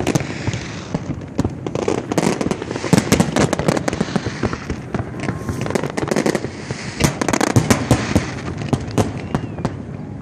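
Fireworks display: a dense, irregular barrage of cracks and bangs going off in rapid succession, with a crackling haze between the reports.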